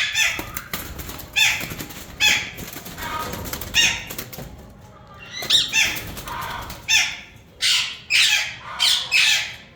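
Yellow ringneck parakeets giving harsh, loud squawks, about ten short calls that each drop in pitch, coming roughly once a second at an uneven pace.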